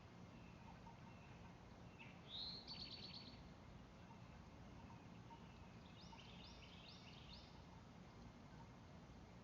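Faint wild songbirds singing: a rising note that runs into a quick trill about two seconds in, then a run of four repeated slurred notes about six seconds in.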